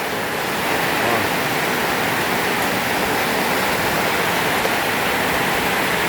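Heavy tropical rain pouring down, a loud steady hiss with no let-up.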